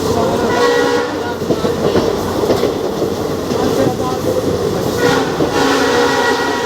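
A train hauled by twin WDP4D diesel locomotives running along the rails, with steady rail and running noise. A locomotive horn sounds briefly about half a second in, then again from about five seconds in and holds on.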